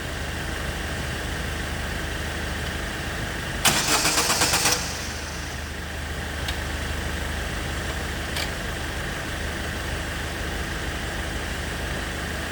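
An engine running steadily at idle, and about four seconds in a one-second burst of starter-motor cranking with rapid pulses. The starter belongs to a 2006 Opel Zafira whose starter motor works only on and off and has to be tapped before it will turn.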